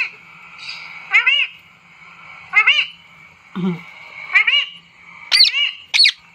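Parrot giving short calls that rise and fall in pitch, about five or six of them spaced roughly a second apart.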